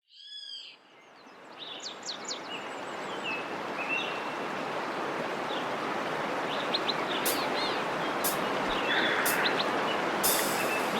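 Birds chirping and calling in short bursts over a steady rushing noise that fades up over the first few seconds.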